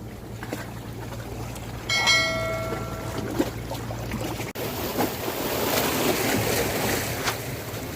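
A steady low engine hum, like a passing boat, with a single bell-like metallic ring about two seconds in that fades over about a second. After an abrupt break about halfway through, the hum gives way to the wash of waves and wind.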